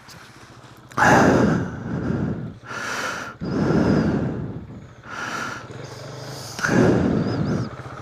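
A person breathing heavily close to the microphone: about five loud breaths in and out, one every second or so.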